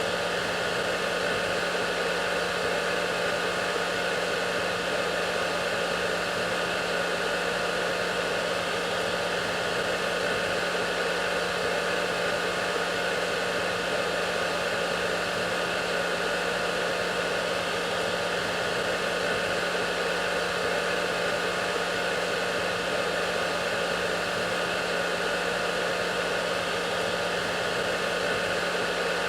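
Hair dryer running steadily: an even rush of blown air with a constant motor hum, unchanging throughout.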